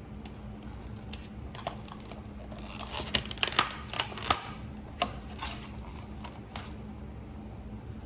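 Small parts and tools being handled while a front sight is fitted to a pistol slide: a run of sharp clicks and light rustling about 2.5 to 6.5 seconds in, over a steady low hum.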